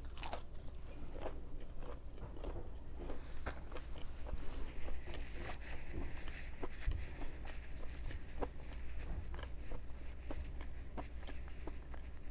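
Close-up mouth sounds of a person biting into and chewing a breaded, fried plant-based chicken nugget, with irregular crunches and wet chewing clicks.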